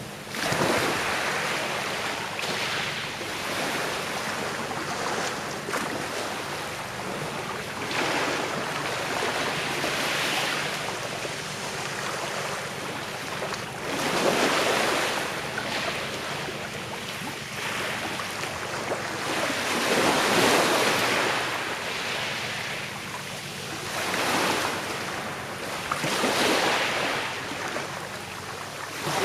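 Sea waves breaking and washing up a shore, the hiss of surf swelling and falling back every few seconds, the loudest surge about two-thirds of the way through.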